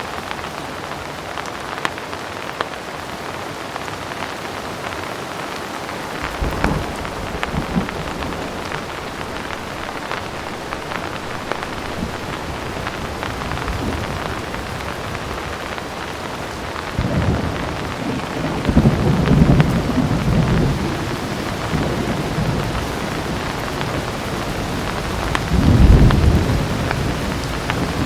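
Heavy rain falling steadily, with thunder rolling in low. The thunder starts about six seconds in, swells loudest around two-thirds of the way through, and rolls again near the end.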